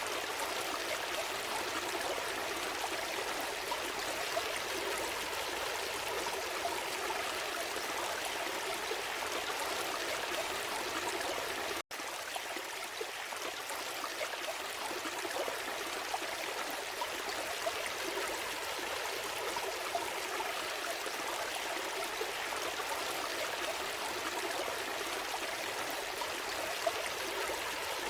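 Gentle forest stream flowing over rocks, a steady rushing and trickling of water. About twelve seconds in, the sound cuts out for a split second.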